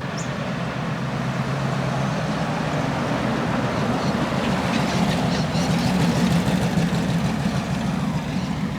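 Car engine rumbling as the car drives past at low speed, growing louder to a peak about two-thirds of the way through, then easing off.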